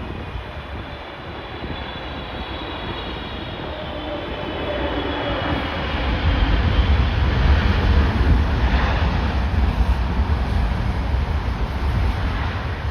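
Jet airliner landing close by: a high engine whine that falls slowly in pitch, building to a loud low rumbling roar about six seconds in. Gusty wind buffets the microphone.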